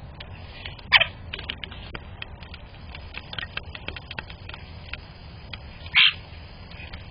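Birds calling: two loud, short calls that fall in pitch, about a second in and again about five seconds later, with many faint short chips and ticks between them.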